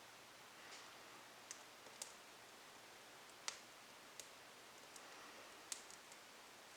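Small twigs burning in a fireplace, crackling with sharp, irregular pops about once a second over a faint steady hiss.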